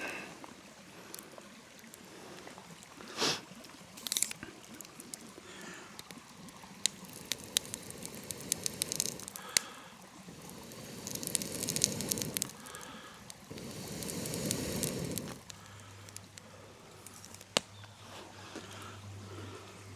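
Small, newly lit campfire of twigs and kindling crackling, with scattered sharp snaps and the rustle of sticks being handled and fed on; a faint steady low hum comes in near the end.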